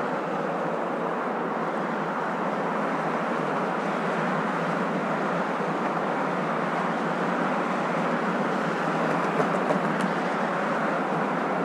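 Steady, even hum of a moving car's road and engine noise, used as a continuous sleep sound. A few faint clicks come near the end.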